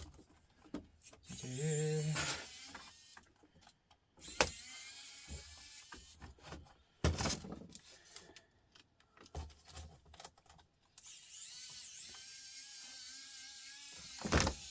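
Small electric screwdriver whirring in short runs as screws are backed out of a laptop's case. There is a short whirr early, two sharp clicks in the middle, and a longer steady run near the end.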